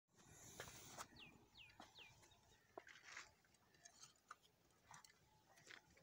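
Faint bird sounds: three quick, descending whistled chirps about a second in, among scattered soft clicks and taps and a few short rasping bursts.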